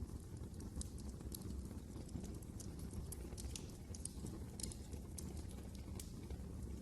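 Fireplace fire crackling: frequent irregular snaps and pops over a steady low rumble of the burning fire.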